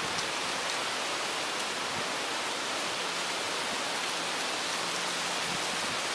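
Wind blowing through trees, the leaves rustling in a steady, even hiss.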